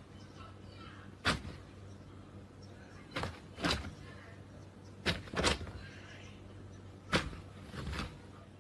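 A series of sharp knocks or taps at irregular intervals, about seven in all, over a faint steady background.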